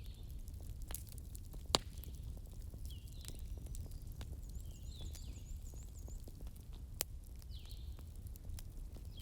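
Wood fire burning with a steady low rumble and scattered crackles, with two sharp pops, one about two seconds in and one near the end. Faint high chirps recur throughout, including a quick run of them in the middle.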